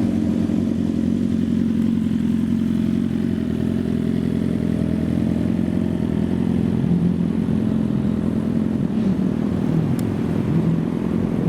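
Supercar engine running steadily at low revs with a deep, even note.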